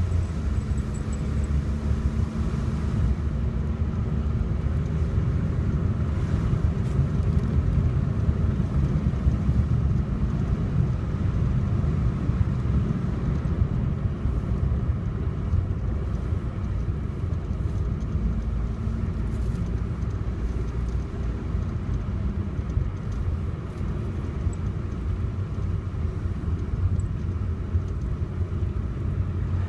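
A car driving along a road: a steady low rumble of engine and tyre noise, with a faint engine hum showing at times.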